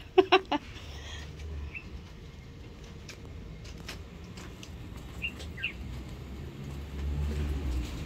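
Quiet outdoor ambience with a few short, high bird chirps, one about two seconds in and two a little after five seconds, over a low rumble and scattered light clicks.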